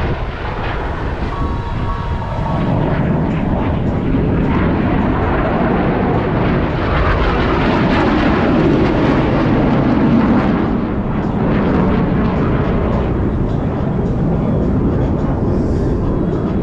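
Two F/A-18 Super Hornet jets flying an opposing knife-edge pass: loud jet engine noise that builds a few seconds in, is loudest around ten seconds in, eases, then swells again near the end.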